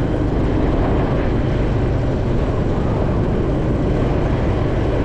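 Steady, loud rumble of a vehicle in motion, with a low drone running throughout.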